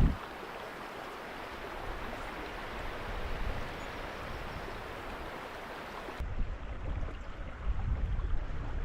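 River water running steadily over rocks, an even rushing hiss. About six seconds in, the sound turns abruptly duller, with a low rumble underneath.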